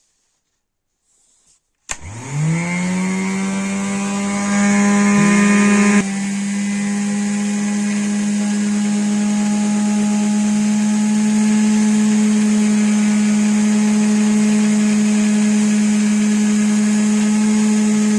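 Restored 1980 vacuum cleaner's brushed motor switched on with a click about two seconds in, spinning up with a rising whine to a steady high-pitched run. Its pitch and loudness shift briefly about four to six seconds in, then it runs steady.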